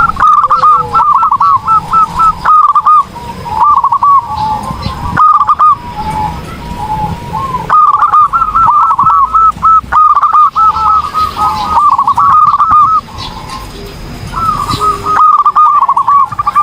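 Zebra dove (perkutut) cooing in its full, active song: rapid runs of short, clipped coos, repeated in phrases of a second or two with brief pauses and a quieter stretch about two-thirds of the way through.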